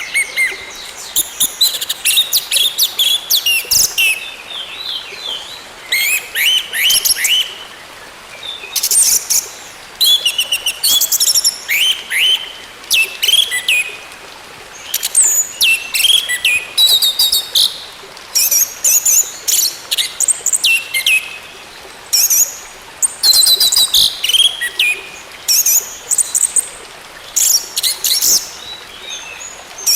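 Orange-headed thrush singing: repeated bursts of fast, varied high chirps, whistles and trills, each lasting a second or two, with short pauses between phrases.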